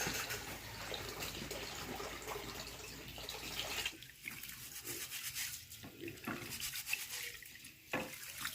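Water splashing and sloshing: an even rush for about four seconds, then broken into separate splashes with short gaps.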